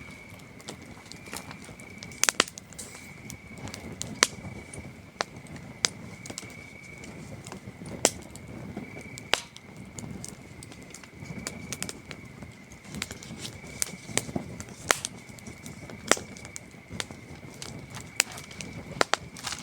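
Wood campfire crackling with sharp, irregular pops over a low rustle of flame, while crickets trill steadily in a high, slightly pulsing tone.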